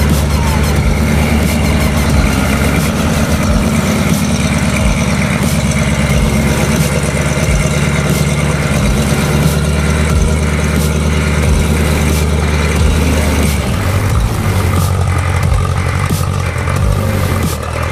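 Heavy off-road vehicle engine running loudly, with a steady deep tone that shifts about three-quarters of the way through.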